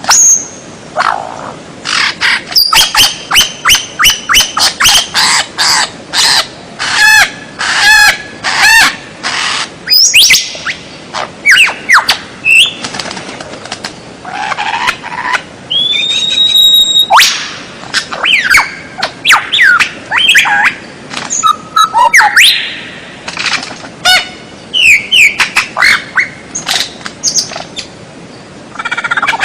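White-rumped shama (murai batu) singing loudly and continuously, in a varied string of clear whistles, rapid repeated notes and sliding phrases broken by short pauses.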